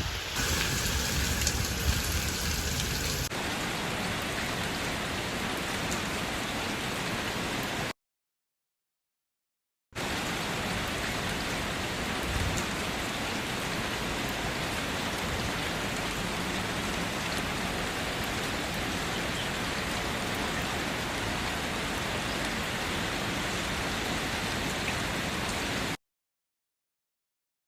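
Steady rain falling, heard in separate stretches broken by two short gaps of silence.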